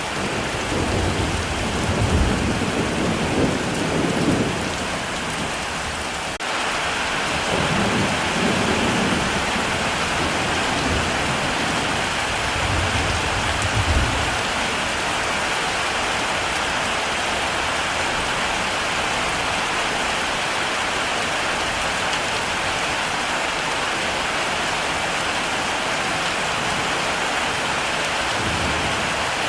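Heavy rain falling steadily, with low rolls of thunder in the first half, the last one about fourteen seconds in. The rain gets abruptly louder about six seconds in.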